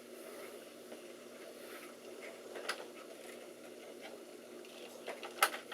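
A few sharp clicks and light knocks from handling parts inside a desktop computer, over a faint steady hum.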